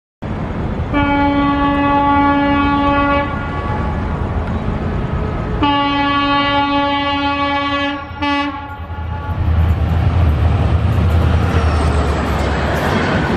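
A WDP4B diesel locomotive of Indian Railways sounds its horn in two long blasts and then a short toot as it approaches. About nine seconds in it passes close by at speed, and the engine and the train's wheels make a loud rumble.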